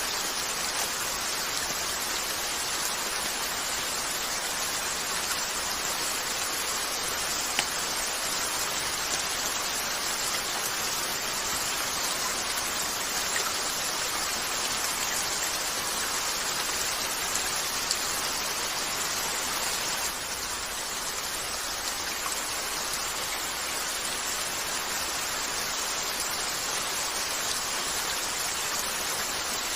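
Steady rain falling against a window, an even hiss with a few sharp ticks now and then.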